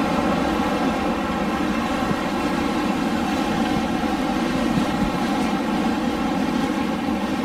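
Steady rushing of blowing air, an even, unbroken hiss-and-rumble with no gusts or changes.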